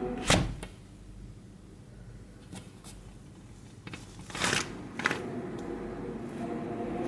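Sliding glass door being handled while its wind whistle is silent: a sharp click just after the start, a few seconds of faint air hiss, then a short sliding scrape and another click about two thirds of the way through.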